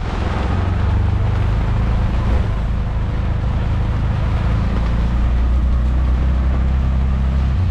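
Steady loud rumble and rushing noise of a vehicle in motion, heard from on board.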